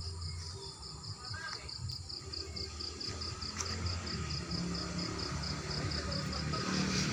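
An insect chirping in an even rhythm, about four short high pulses a second, over a low rumble that grows louder toward the end.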